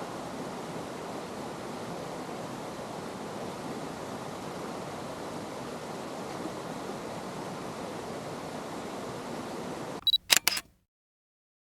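Mountain stream rushing steadily. About ten seconds in there is a quick run of about four sharp clicks, after which the sound cuts off abruptly to silence.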